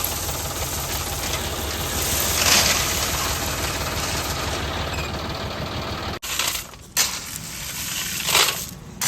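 Tractor engine running steadily. About six seconds in, the sound cuts off abruptly and is followed by a few short, noisy bursts.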